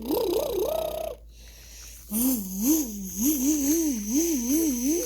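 A child's voice making buzzing engine noises for toy cars: a wavering hum that swoops up and down in pitch, broken by a pause of about a second near the start.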